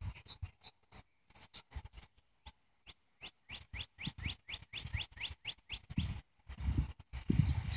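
Bird chirping: a few high notes, then a quick run of short rising chirps several times a second in the middle, among many short clicks and knocks. A low rumble builds near the end.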